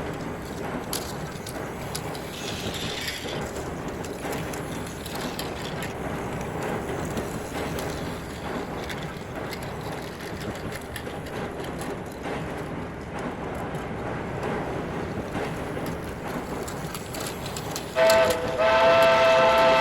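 Plarail toy C61 steam locomotive running on plastic track: a steady whirring and rattling of its small motor and wheels. Near the end a loud, held steam-whistle tone of several pitches sets in.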